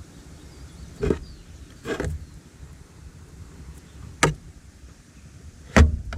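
Four short thumps and clicks over a low steady rumble, about a second, two seconds, four seconds and nearly six seconds in, the last the loudest.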